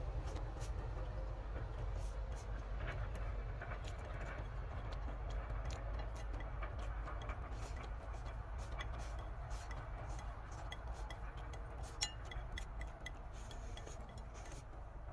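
Light clicks and clinks of utensils against a cooking pot or bowl while eating, with one sharper click about twelve seconds in, over a steady low rumble.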